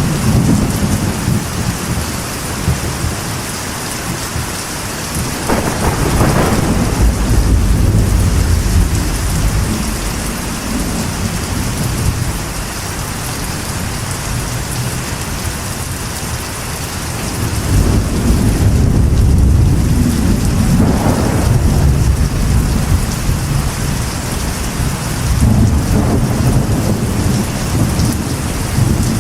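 Steady rain drumming on a metal roof, with rolls of deep thunder rumbling through it, swelling about six seconds in, again around eighteen seconds and near the end.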